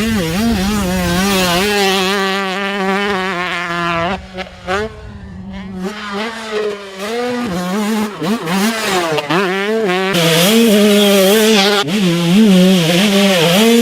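Two-stroke dirt bike engine ridden on and off the throttle, its pitch rising and falling with each blip. It eases off and drops quieter about four to six seconds in, then runs louder and steadier near the end.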